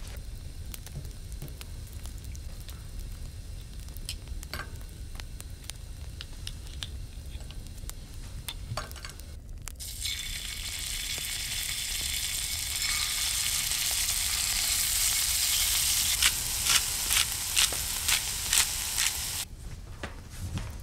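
Food frying in a pan on a wood stove, a sizzling hiss. It grows loud from about halfway in, carries a run of sharp pops near the end, and then cuts off suddenly.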